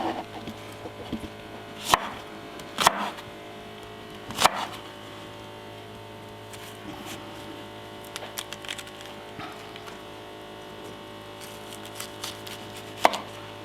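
Kitchen knife chopping through a banana heart (banana blossom) on a cutting board: four separate knocks, three in the first few seconds and one near the end.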